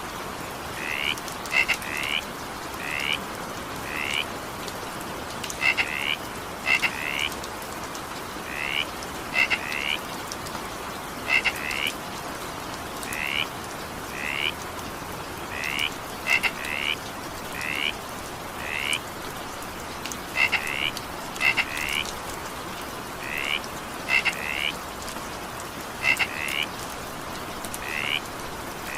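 Frogs croaking over steady rain. The croaks are short and come singly or in quick pairs about every second.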